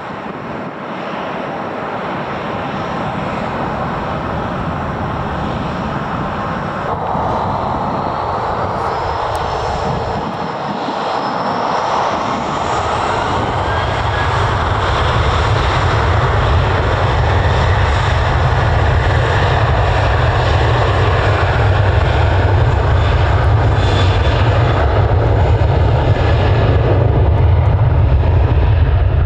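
Airliner engines growing steadily louder, with a whine rising in pitch a quarter to halfway through and a deep rumble building after it.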